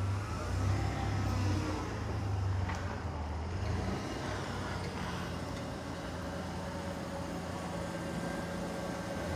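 Motor vehicle engine running, loudest over the first few seconds, then settling into a steady low hum.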